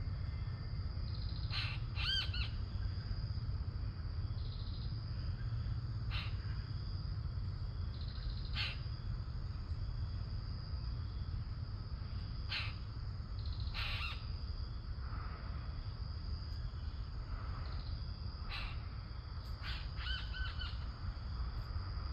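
Birds calling in the open: short, scattered calls, some in quick pairs or runs, over a steady high-pitched whine and a constant low rumble.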